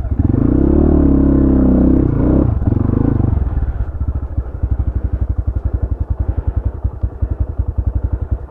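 Motorcycle engine revved up for about three seconds, then dropping back to a lumpy, pulsing idle.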